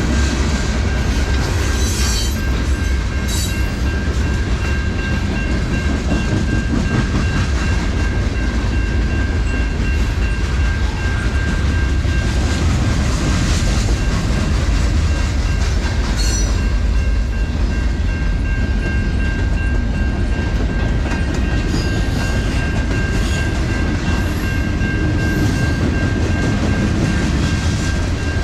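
A train rolling steadily past at close range, its wheels clattering over the rails with a few sharp clicks, a continuous loud rumble throughout.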